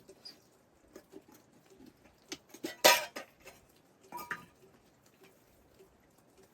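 Dishes and metal utensils being handled: scattered light clicks, one loud clank about three seconds in, and a short ringing clink a little over a second later.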